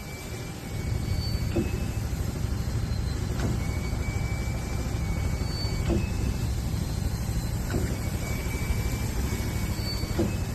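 Sealcoat sprayer pump running with a steady low rumble that grows louder about a second in, and a faint recurring knock about every two seconds. It is a pump that sounds like it's on its last leg.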